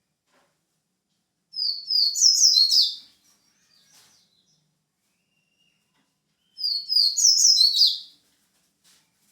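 White-breasted papa-capim, a Sporophila seedeater, singing two short song phrases of quick, high, stepped notes, about five seconds apart.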